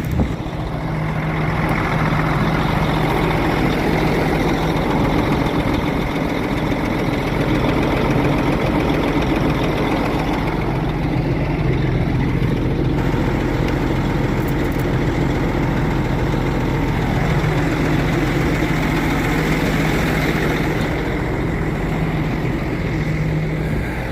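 Truck engine idling steadily, charging the dead batteries of another truck through jumper cables.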